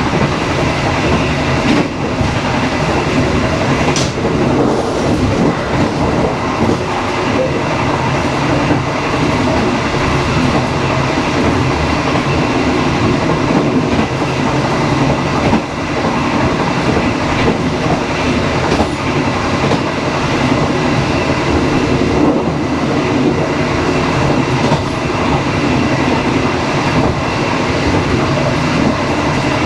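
Dharmawangsa passenger train running along the track: a loud, steady rumble of wheels on rails, with a single sharp click about four seconds in.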